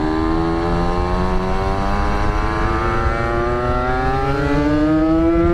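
Yamaha RX-King two-stroke motorcycle engine pulling under steady throttle, its pitch rising slowly and evenly as the bike accelerates in one gear.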